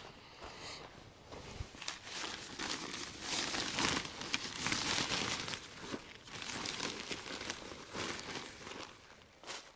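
Irregular crinkling and rustling of camp gear being handled during setup, with scuffing steps and small clicks mixed in. It is loudest in the middle and falls away at the end.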